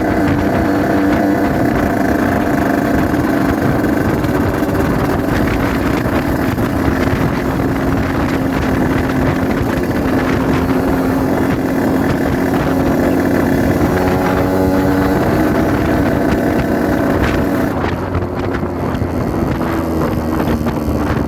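Yamaha RX-King 135 cc two-stroke single-cylinder motorcycle engine running at a steady cruise while being ridden, with wind on the microphone. Its note shifts about two-thirds of the way through, and near the end the throttle eases off and the pitch falls.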